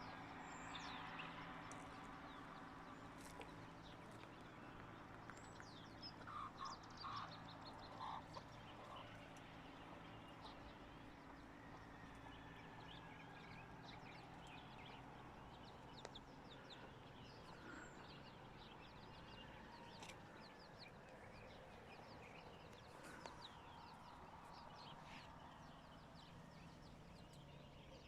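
Birds chirping and calling faintly, with a few louder short calls about six to eight seconds in, over a faint steady low hum.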